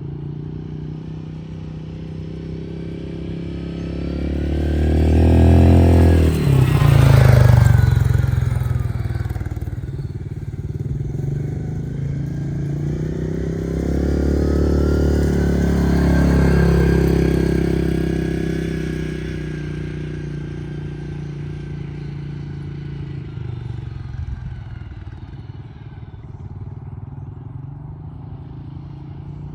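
2019 Yamaha Kodiak 700 ATV's single-cylinder engine running through its exhaust. It grows louder twice, about five seconds in and again around fifteen seconds, with a sharp drop in pitch at the first peak, then settles back to a steady lower drone.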